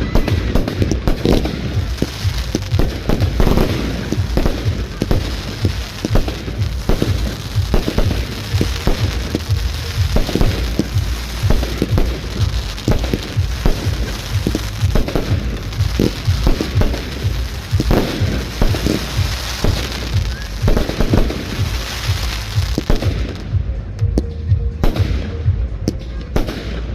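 Fireworks display: a rapid, continuous barrage of bangs from aerial shells, with crackling over the top. Near the end the crackle dies away, leaving more spaced-out low booms.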